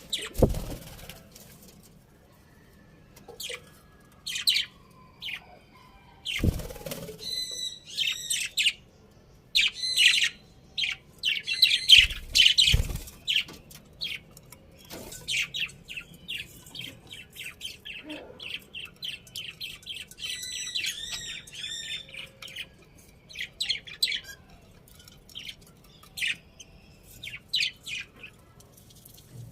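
Budgerigars chirping and chattering in many short high calls, with a fast run of chirps in the middle. A few loud dull thumps come near the start, about six seconds in and about twelve seconds in.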